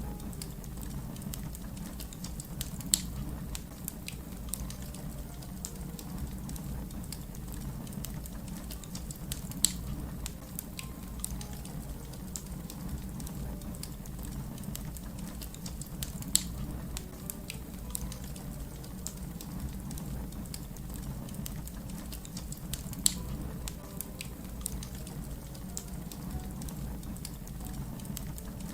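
Wood fire crackling: a steady low rumble of burning under many small snaps and pops, with four louder sharp pops spaced about seven seconds apart.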